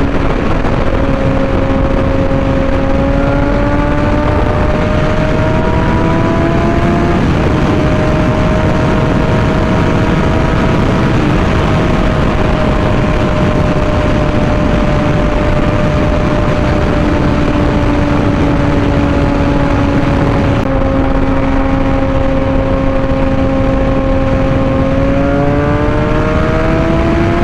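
Suzuki GSX-R600 inline-four engine running at a steady cruise under heavy wind rush on the microphone. Its pitch drifts gently up and down and climbs as the bike speeds up near the end.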